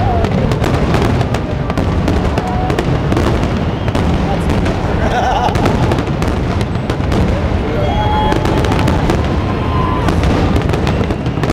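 Aerial fireworks shells bursting in a dense, continuous barrage: many overlapping bangs and crackles with no pause.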